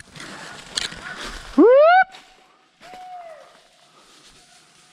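A man's loud "whoop" holler rising sharply in pitch: a dog hunter's call urging his hounds on. A fainter falling hoot follows about a second later.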